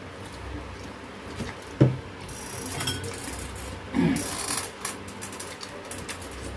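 Mealtime handling sounds: rubbing and clattering of dishes and utensils, with two short louder knocks about two and four seconds in.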